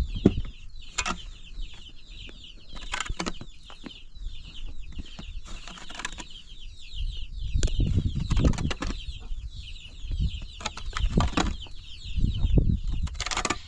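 Chickens: a steady high chatter of cheeping and clucking, broken by several sudden knocks or flaps and some low rumbling.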